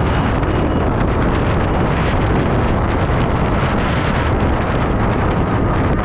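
Steady wind rush buffeting the microphone on a moving electric mountain bike, with road and drivetrain noise underneath.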